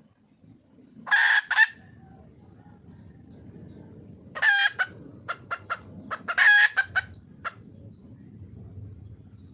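A red junglefowl hen calling for a mate. It gives three bouts of loud, rough calls, about a second in, around four and a half seconds and around six and a half seconds, with short quick single notes between and after them.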